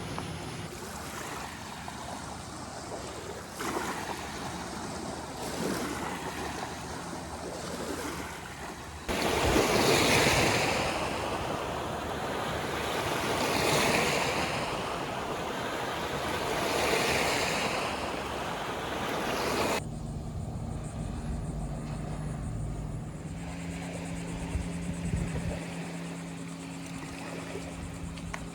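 Rushing wind and water noise outdoors by a waterway, swelling and fading every few seconds, loudest in the middle. About twenty seconds in it cuts to a quieter scene with a steady low drone from a distant motor.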